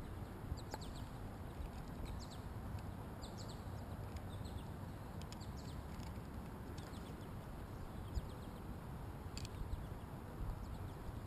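Small birds chirping in short, quick falling notes, scattered throughout, over a low steady rumble, with a few light knocks.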